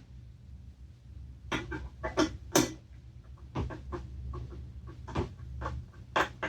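Irregular clicks, light knocks and scrapes of small parts and tools being handled during hands-on reassembly work, over a low steady hum.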